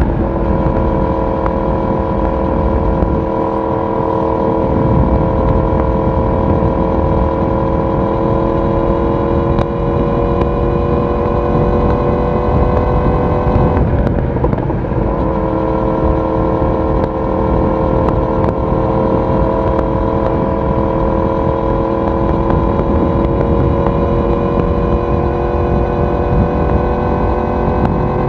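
Yamaha YZF-R1 inline-four engine and exhaust under way at steady throttle, pitch climbing slowly as speed builds. About halfway through it breaks briefly for an upshift, then comes back lower and climbs again, over a rush of wind noise.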